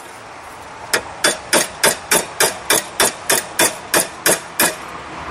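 Hand hammer striking the steel railroad spike knife, a steady run of about a dozen sharp, ringing blows, roughly three a second, starting about a second in: hammering to straighten the knife after its handle wrap.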